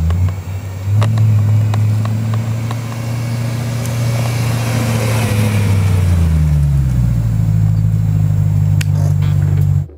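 BMW E92 M3's 4.0-litre V8 running through a Borla rear-section exhaust: a loud, steady exhaust note that swells about a second in, falls in pitch about two-thirds of the way through, then holds steady before cutting off suddenly near the end.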